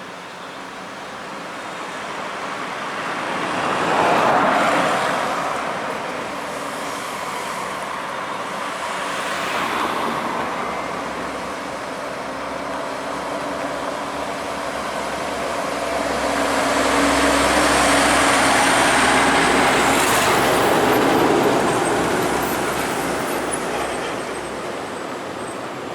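Road traffic with vehicles passing by one after another, each swelling and fading; the longest and loudest pass comes in the second half, with a deep low rumble like a heavy truck going by.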